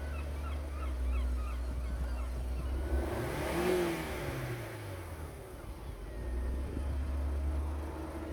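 Opel Meriva A's 1.4-litre Z14XEP four-cylinder petrol engine idling, revved once about three seconds in: the pitch rises and falls over about two seconds, then it settles back to idle.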